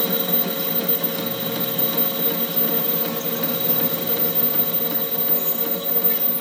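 A workshop machine running steadily, a constant hum with a fixed whine and a rough mechanical rattle.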